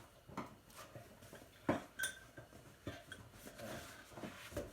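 Packing material and small metal or ceramic kit parts being handled, with scattered light knocks and clicks. A sharper knock is followed by a short ringing clink a little under halfway through.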